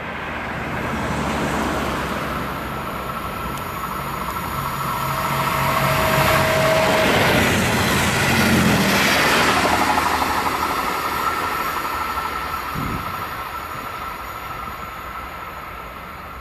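DSB IC3 (MF) diesel multiple unit passing at speed: its engines and running noise build as it approaches, are loudest about eight to ten seconds in as it goes by, then fade as it runs away.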